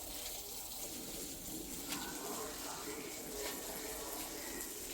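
Water running steadily from a tap, with a faint knock about two seconds in.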